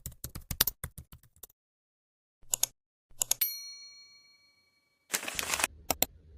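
Quick keyboard- or typewriter-like clicks, then after a pause a single bell-like ding about three and a half seconds in that rings out and fades over under two seconds. A short rush of noise and a few more clicks follow near the end.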